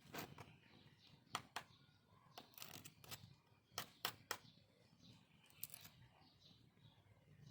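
Irregular sharp clicks over a faint low hum, some coming in quick pairs, about a dozen in all.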